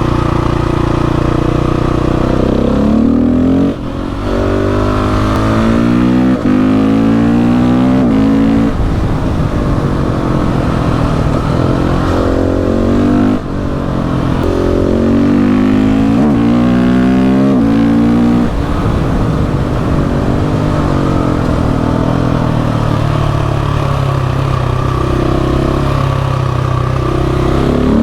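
KTM 690 SMC R single-cylinder engine pulling hard up through the gears, its pitch climbing in runs broken by quick upshifts, then dropping back as the throttle closes; it does this twice.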